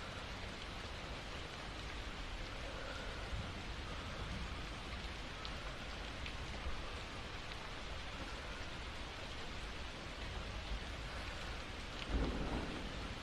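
Steady rain falling, an even hiss of drops, with a brief louder low rumble near the end.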